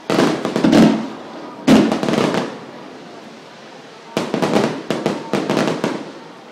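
Aerial fireworks shells bursting: a bang at the start, another just under a second in and a third near two seconds, each dying away slowly, then a rapid string of sharper cracks from about four to six seconds.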